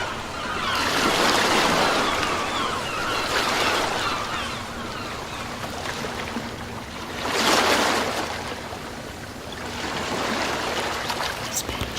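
Sea waves breaking and washing up the shore, the surf swelling and easing in slow surges, with the biggest wave a little past halfway.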